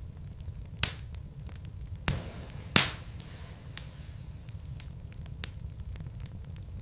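Wood logs burning in a fireplace: a steady low rumble with scattered small crackles and a few sharp pops, the loudest nearly three seconds in.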